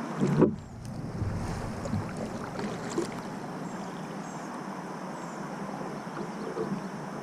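Kayak on open water: a steady hiss of wind and water with a single loud bump against the hull just under half a second in, then a few small knocks.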